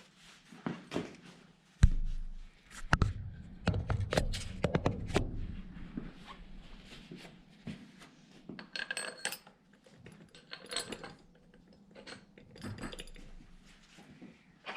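Metal tools and hardware clinking and knocking: a hard clank about two seconds in, a quick flurry of clinks and taps after it, then a few lighter, ringing metallic clinks later on.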